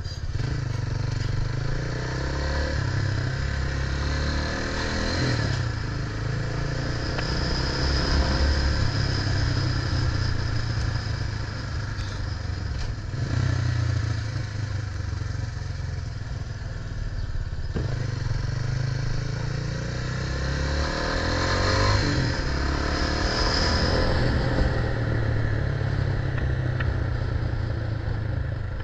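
Engine noise and wind buffeting the microphone while riding along a street. The engine note swells about five seconds in and again near twenty-two seconds.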